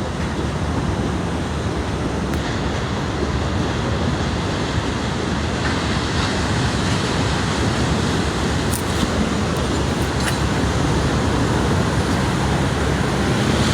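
Steady rushing outdoor noise of sea surf and wind, with no distinct events.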